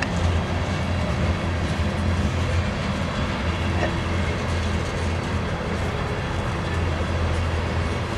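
Loaded coal train cars rolling slowly past on the rails, a steady low rumble.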